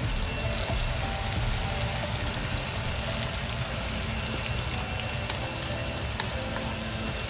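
Sliced king bolete mushrooms frying in butter and heavy cream in a pan, a steady sizzle while a wooden spatula stirs them.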